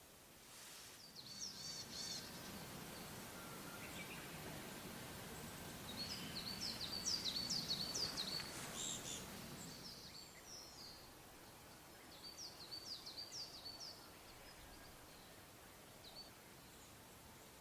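A small songbird singing three short phrases of quick, high chirps, with a soft low rumble swelling and fading under the middle phrase.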